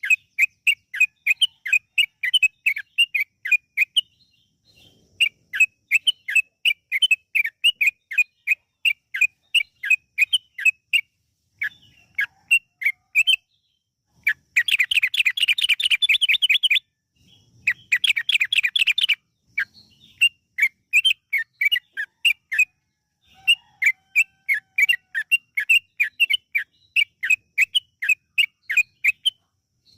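Yellow-vented bulbul (trucukan) singing a long, fast song: runs of quick, clear chirping notes at about four to five a second, broken by short pauses, with a faster, louder rolling trill about halfway through.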